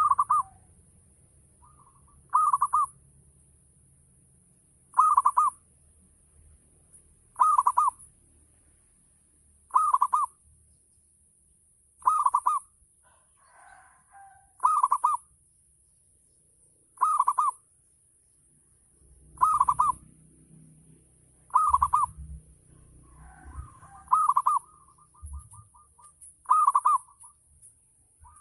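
Zebra dove (perkutut) cooing, one short phrase repeated about every two and a half seconds.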